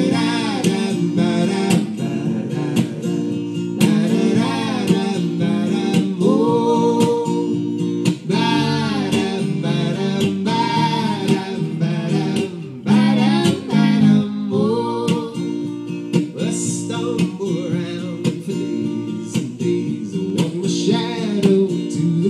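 Live acoustic folk music: a strummed acoustic guitar, with a melodic line bending over it, in a passage between sung verses.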